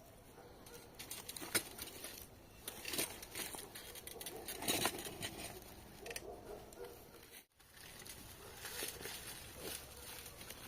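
Irregular crunching, scraping and knocking of stones being hauled on a small improvised hand cart over rough ground.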